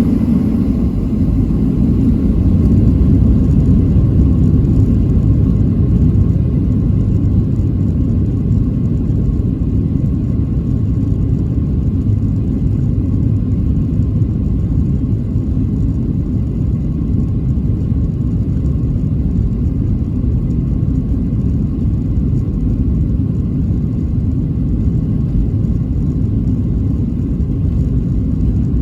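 A Boeing 737-700's CFM56-7B jet engines and airframe giving a loud, steady low rumble during takeoff, with faint steady tones above it.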